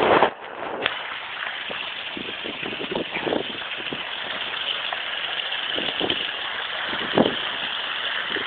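Steady rushing hiss of rain and wind on the microphone, with a few dull knocks, the loudest right at the start and another about seven seconds in.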